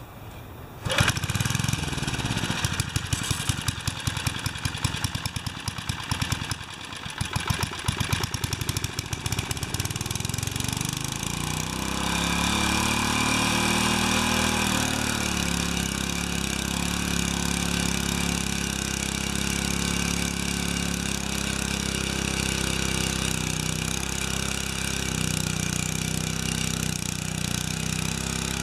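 Small gasoline engine of a rototiller starting about a second in, running unevenly with dips for several seconds, then settling into a steady run.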